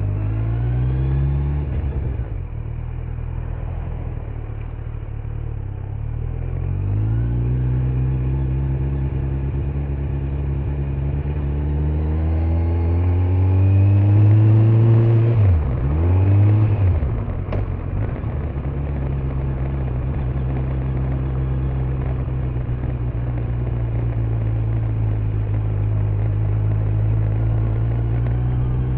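Kawasaki Z900's inline-four engine on the move, heard from the rider's backpack: it revs up and eases off a few times, climbs hard to its loudest about halfway through, then its pitch dips sharply twice before it settles into a steady cruise.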